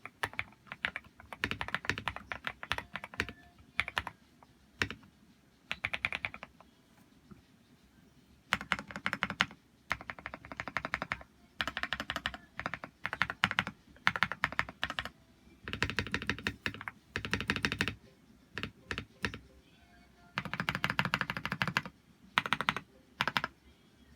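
Mechanical keyboard being typed on in runs of fast keystrokes with short pauses between them. It is a Zifriend ZA68 with lubed KTT Kang White linear switches, PBT XDA-profile keycaps, a tape mod and full foam, giving the muted, 'creamy' clack of a modded board.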